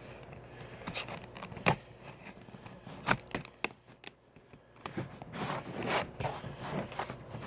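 Razor blade cutting into a diecast car's packaging: scraping and slicing noises, with a few sharp clicks and crackles from the packaging.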